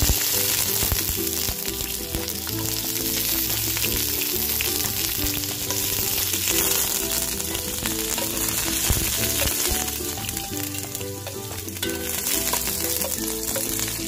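Sliced ginger and other aromatics sizzling in hot oil in a pot, loudest right at the start as they hit the oil, then frying steadily while a spoon stirs them. Background music plays under it.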